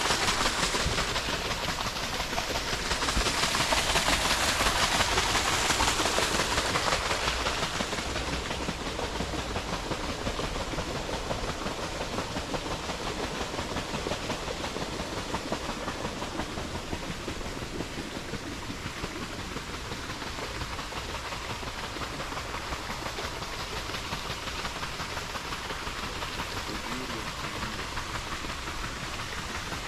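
Steady rush of flowing water from a stream, an even hiss that swells for a few seconds near the start and then holds level.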